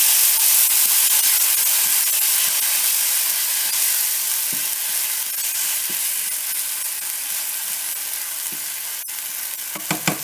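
Onions and a wet garlic-ginger-cilantro paste sizzling in hot oil in a nonstick pan while a spatula stirs it: a steady frying hiss with faint scrapes, easing slowly. The paste is being fried to cook off its raw smell.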